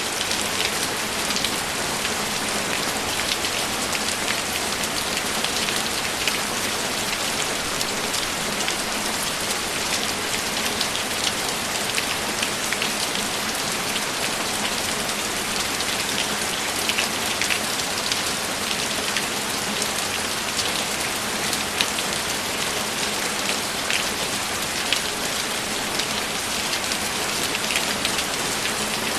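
Steady rainfall, an even hiss with many small drops pattering on a surface.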